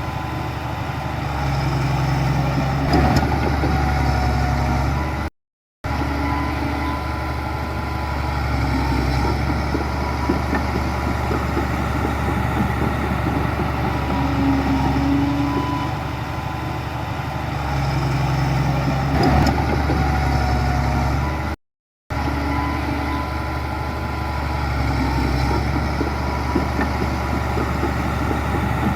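Heavy diesel earthmoving machinery running steadily, a bulldozer and dump trucks, with a continuous low engine note. The sound cuts out completely twice for about half a second.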